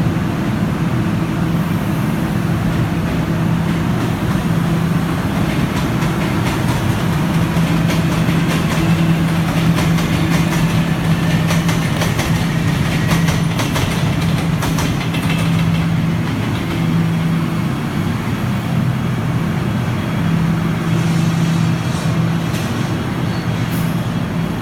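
Guangzhou Metro Line 1 train running along the track: a steady rumble with a constant low hum and scattered faint clicks.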